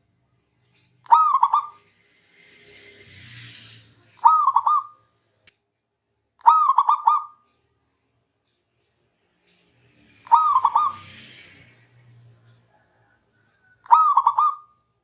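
Zebra dove (perkutut) cooing: five short phrases, each a quick run of soft rolling notes, repeated every two to four seconds. A faint hiss comes between some of the phrases.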